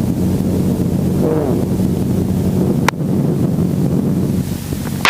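Robinson R44 helicopter's engine and rotors running, a steady hum with a faint voice underneath. A single sharp click comes about three seconds in.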